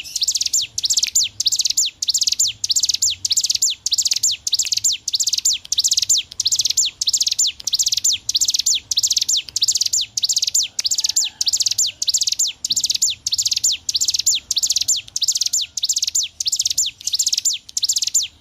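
Bar-winged prinia (ciblek gunung) singing continuously: a rapid series of high, sharply falling notes, a little over two a second, without a break.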